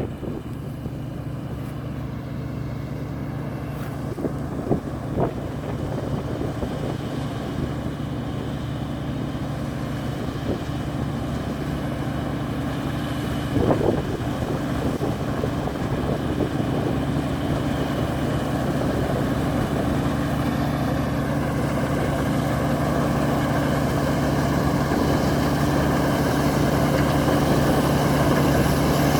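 New Holland TX34 combine harvester's diesel engine running at a steady pitch, growing gradually louder, with a few short knocks about five seconds in and a louder one about halfway through.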